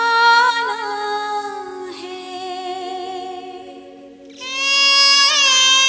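Hindi song music: long held melodic notes with wavering ornaments over a steady drone, fading about two seconds in before a new held phrase enters about four seconds in.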